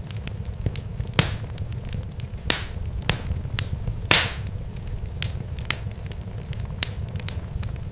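Wood fire crackling: irregular sharp pops, a few louder ones trailing off into a short hiss, over a steady low rumble.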